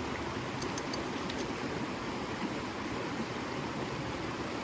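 Steady rushing of creek water, with a few faint clicks about a second in.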